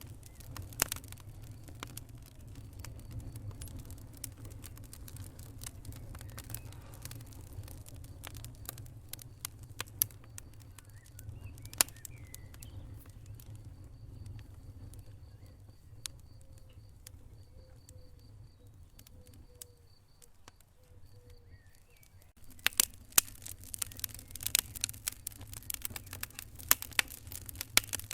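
Wood fire burning in a fireplace: a steady low rumble of the flames with scattered sharp pops and cracks. It dies down briefly about three-quarters of the way through, then breaks into dense, rapid crackling.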